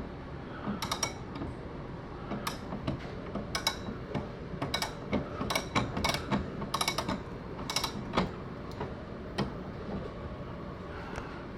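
Mounting screws of an over-the-range microwave being backed out with a hand tool: irregular metallic clicks and creaks, a few a second.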